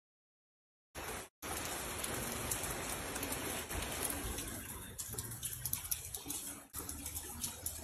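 After about a second of dead silence, steady rain falls, with single drops ticking now and then over an even hiss.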